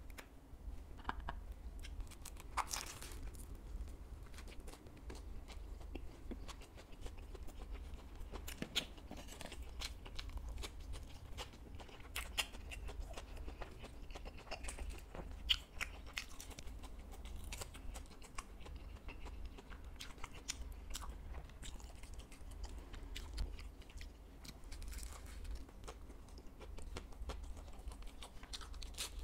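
Close-up eating sounds: a person biting into and chewing bread stuffed with fried fish balls and fried skewer pieces, with many short crunches and mouth clicks. A low steady hum runs underneath.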